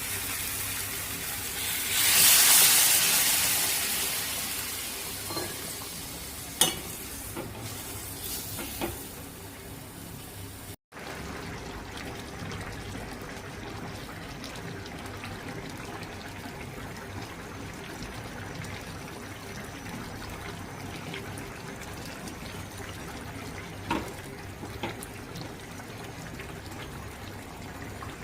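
Sizzling in a cooking pan: a loud burst of sizzling about two seconds in that dies away over several seconds. After a sudden cut there is a quieter steady hiss with a few clicks and knocks.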